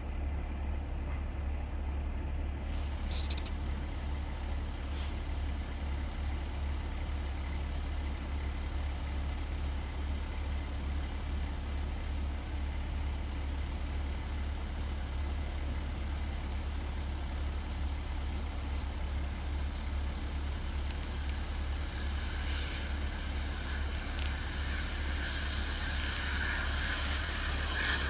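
Distant jet engine of a Canadair CT-114 Tutor running steadily over a constant low rumble, its whine growing louder over the last few seconds.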